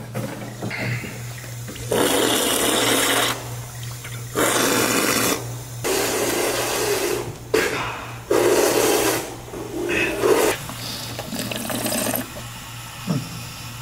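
Drinking fountain water jet, starting and stopping in about six separate bursts of a second or so each.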